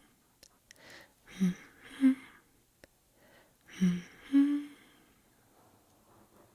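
Soft, breathy hummed singing from a background song: four short hummed notes in the first five seconds, between sung lines.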